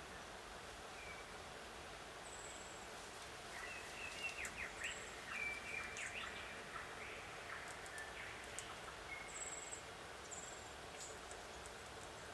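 Wild birds chirping and calling in short, high notes over a steady background hiss, busiest a few seconds in and thinning out toward the end, with a few faint clicks.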